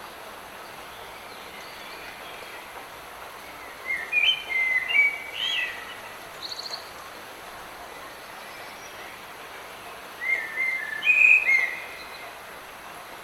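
Steady hiss of light rain in a forest, with a songbird singing two short phrases of quick chirps and glides, one about four seconds in and one about ten seconds in, and a brief high trill between them.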